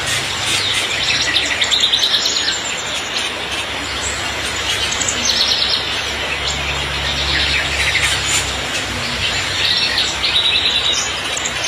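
Caged songbirds chirping and trilling in short bursts, about four times, over the steady hiss of heavy rain.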